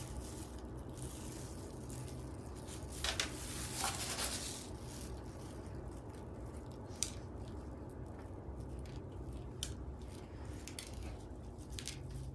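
Faint scattered clicks and light taps of small pieces being handled and set down, over a steady low hum.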